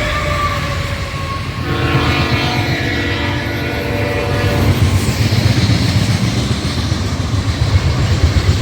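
Diesel freight locomotive passing with a heavy low engine rumble. Its multi-tone air horn sounds for about three seconds, starting a couple of seconds in.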